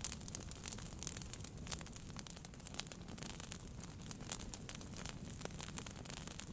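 Wood fire burning in a fireplace, crackling with many small, irregular pops over a low, steady rumble of flame.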